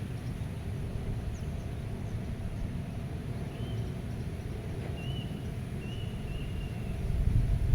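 Wind rumbling on the microphone, with faint bird chirps and short whistled calls in the background; the wind swells in a gust near the end.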